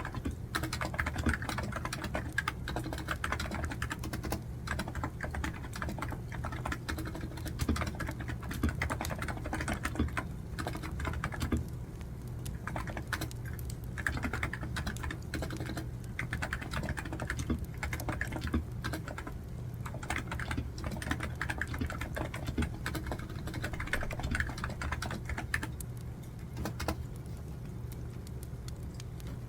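Rapid, continuous typing on a computer keyboard, dense irregular key clicks with a couple of brief lulls, over a steady low background of a crackling wood fire.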